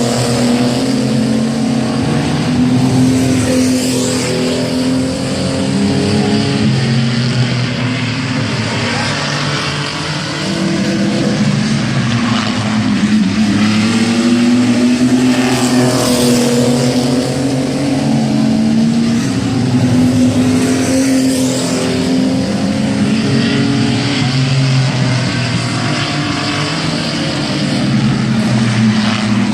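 A field of mini trucks racing around an oval, their engines running hard together, the pitch rising and falling again and again as they accelerate and back off through the laps.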